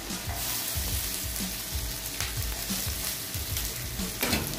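Garlic and onion sizzling in melted butter in a nonstick frying pan, with a few brief scrapes of a spatula stirring them, about half a second in and again near the end.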